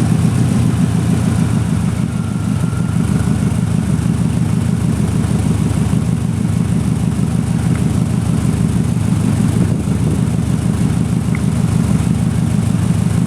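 2004 Subaru WRX turbocharged flat-four idling steadily through an HKS Hi-Power exhaust with a high-flow catalytic converter, a loud, even, low-pitched exhaust note.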